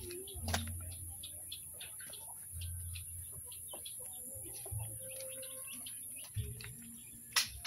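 Birds chirping and clucking, many short high calls throughout, with handling knocks and rumble from the phone about half a second in and again near the end.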